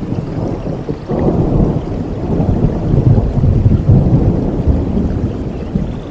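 Thunder rumbling over steady rain in a rainforest storm, the rumble swelling about a second in and loudest near the middle.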